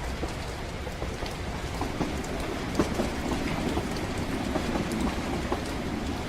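Ride in a train carriage: a steady low rumble of wheels on the track, thickening from about two seconds in, with rain ticking against the windows.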